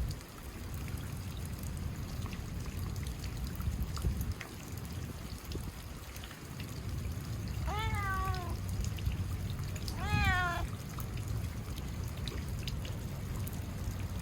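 A cat meowing twice, about eight seconds in and again two seconds later, over steady rain noise.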